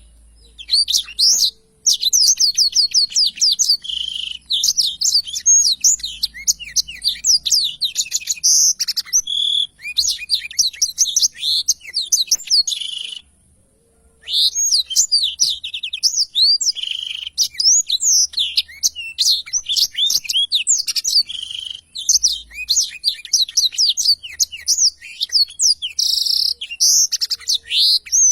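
Black-throated canary singing a long, rapid rolling song of quick high chirps and trills, broken by a brief pause about halfway through.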